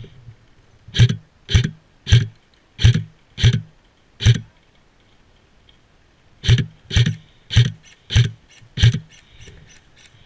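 Walking footsteps on the forest floor, about two steps a second: six steps, a pause of about two seconds, then five more, with fainter steps near the end.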